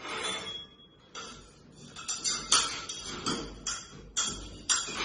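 A run of sharp, bright clinking hits, roughly two a second and unevenly spaced, each with a short ring.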